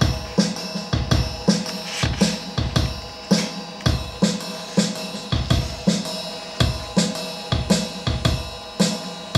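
Drum kit playing a steady groove of kick, snare and cymbals, about two hits a second, as the song's introduction.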